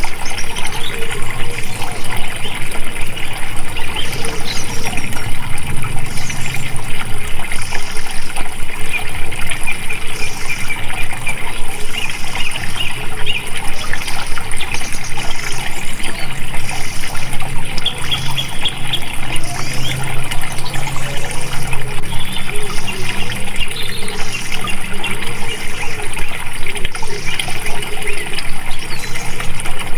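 Water flowing and trickling steadily.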